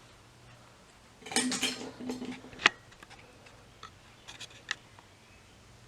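Metal parts or tools being handled, clinking and rattling about a second in and ending in one sharp click, then a few faint ticks. A low steady hum runs underneath.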